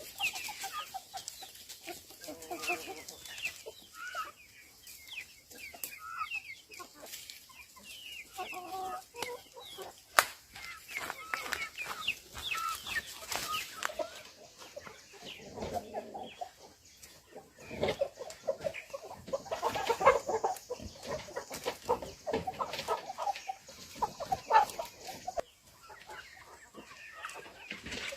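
Chickens clucking, with many short, irregular calls overlapping and a few sharp knocks.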